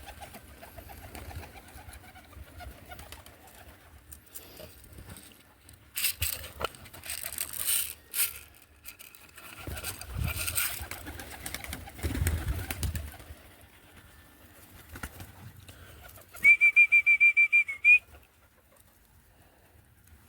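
Young roller pigeons cooing, with a few short bursts of rustling. Near the end comes a loud, high-pitched tone pulsing rapidly for about a second and a half.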